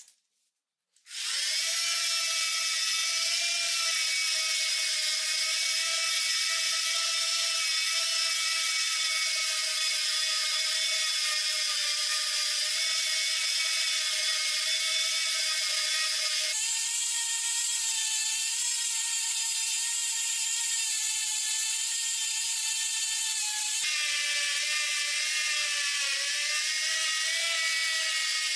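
Electric power tool motor running with a steady high-pitched whine that starts about a second in. Its pitch steps up about two-thirds of the way through and drops back again near the end.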